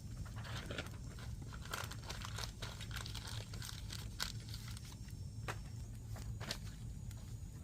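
Wood fire crackling: burning logs giving off irregular snaps and pops over a steady low rumble.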